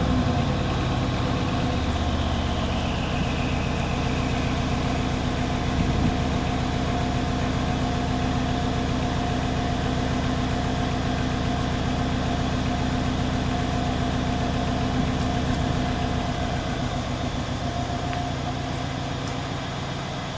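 Mercedes-Benz E500 W212's 4.7-litre twin-turbo V8 idling steadily through an exhaust with the secondary catalytic converters removed and an X-pipe in place of the centre resonator, stock muffler kept. A faint high whine falls away in the first few seconds, and the idle eases slightly lower near the end.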